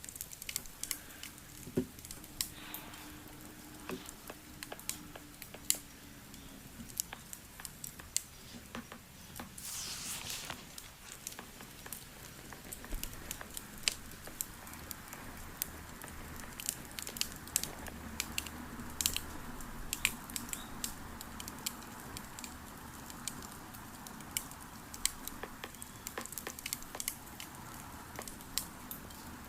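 Wood fire crackling: scattered sharp pops and ticks, with a brief hiss about ten seconds in.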